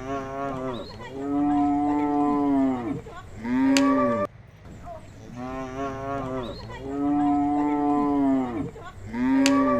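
Cattle mooing: a run of long, drawn-out moos, the same three-moo sequence sounding twice.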